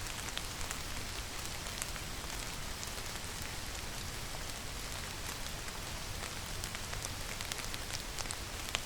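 Steady rainfall: an even hiss with many separate drops ticking close by, scattered irregularly throughout.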